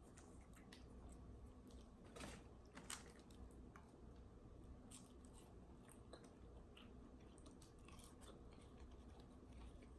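Faint close-up chewing of crispy fried food: scattered small crackles, with two louder crunches about two and three seconds in.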